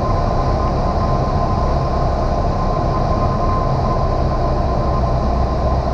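Single-engine piston airplane's engine and propeller droning steadily in cruise, heard from inside the cockpit, with a steady high tone running through it.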